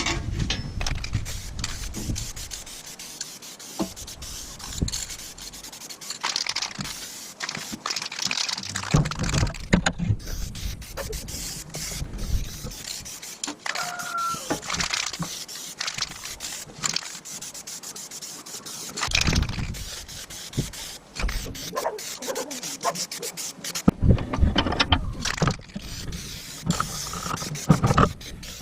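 Hand tool scraping and rubbing on metal, with scattered knocks and clicks and a brief squeak about halfway through.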